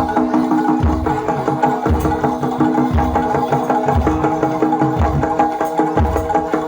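Live jaranan accompaniment from a Javanese gamelan-style ensemble: metal gong-chimes ring in steady repeating notes over drums, with a deep bass-drum thump about once a second.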